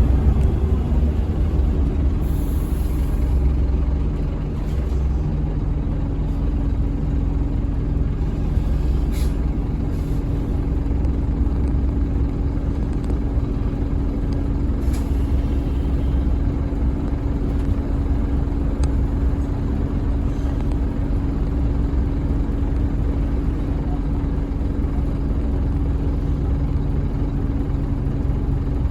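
A 2008 Scania N230UB OmniCity single-decker bus under way, its five-cylinder diesel running steadily with low road rumble and a constant whine. A few short hisses of air come from the brakes or air system now and then.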